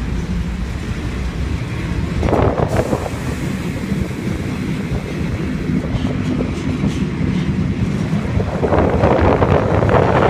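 Passenger train running at speed, heard from inside a carriage: a steady low rumble of the moving train. Wind gusts hit the microphone at the open window, briefly about two seconds in and more strongly near the end.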